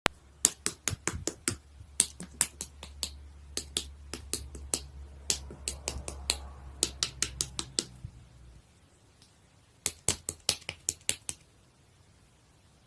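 A run of quick, sharp clicks in irregular bursts, like keys or buttons being tapped, pausing after about eight seconds and then resuming briefly. A low hum runs under the first part and cuts off about two-thirds of the way in.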